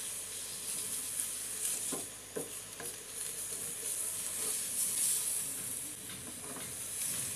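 Carrot, onion and chicken filling sizzling in oil and a little water in a nonstick wok, stirred with a wooden spatula, with a few soft strokes of the spatula against the pan.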